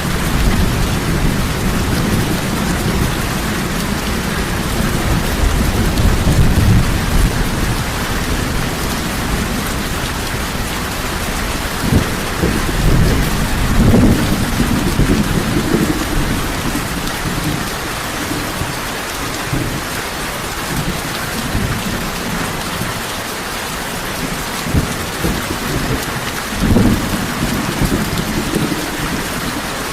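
Heavy rain falling steadily, with low rolls of thunder swelling several times underneath, strongest a little after midway and again near the end.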